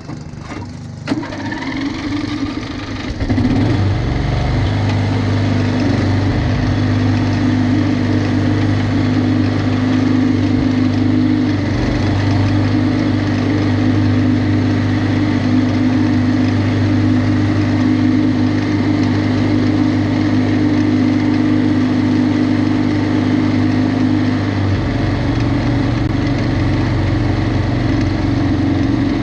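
Lawnmower engine coming up to speed over the first three seconds, then running steadily, with a change in its low tone about 25 seconds in.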